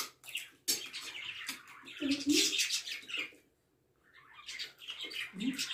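Close-up eating sounds: wet chewing and lip-smacking as chicken meat is eaten off the bone by hand, with a couple of short hums, and a brief pause a little past halfway.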